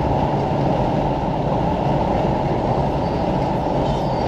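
Steady road and engine drone inside a car cruising at highway speed.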